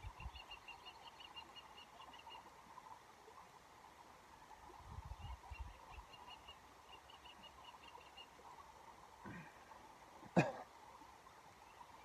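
A bird calling in several quick runs of short, high, rapidly repeated notes over a faint steady background of a shallow stream running. A single sharp click sounds near the end.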